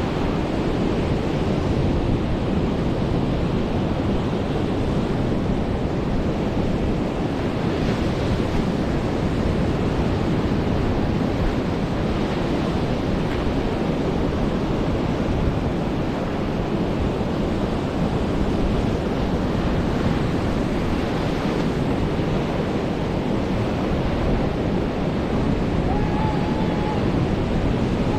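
Surf breaking and washing onto a beach: a steady rush of waves that swells twice, about eight and twenty-one seconds in, with wind buffeting the microphone.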